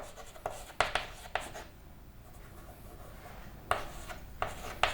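Handwriting: a series of short, scratchy pen strokes with brief pauses, clustered around one second in and again near the end, with a quieter gap between.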